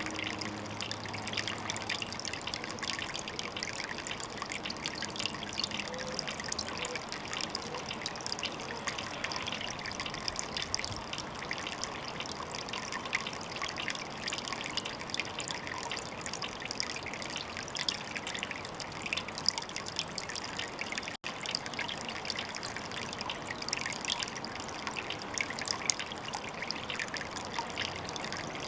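Water trickling steadily, a dense patter of small splashes and drips.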